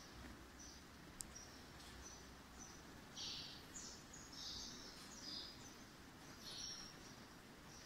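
Faint chirping of small birds: irregular short high chirps, the loudest about three seconds in, over a low steady hum, with two sharp ticks.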